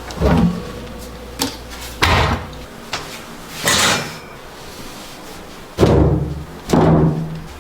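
Metal parts clanking and thudding as they are handled, in about six separate knocks spread unevenly, some with a low thump and a short ring after them.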